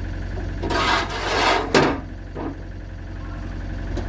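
Wood block and sheet metal scraping and creaking under the strain of a chain dent pull on an old pickup body, a burst about a second long that ends in a sharp crack. A smaller knock follows, and an engine idles steadily underneath.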